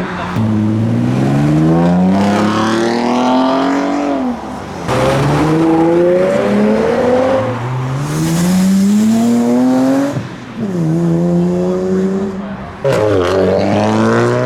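Modified cars' engines accelerating hard away. The engine pitch climbs steeply, drops back and climbs again several times, with a rushing noise for a couple of seconds in the middle.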